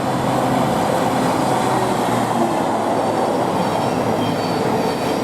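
Electric trains, a Class 700 multiple unit and a Class 92 locomotive, passing at speed: a steady loud rush of wheels on rail with a faint motor whine.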